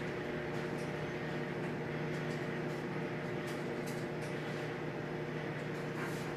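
Steady low hum of a running appliance in the room, with a few faint clicks.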